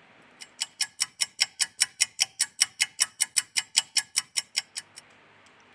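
Rapid, evenly spaced ticking, five or six ticks a second, with a light ringing tone in each tick. It stops about a second before the end.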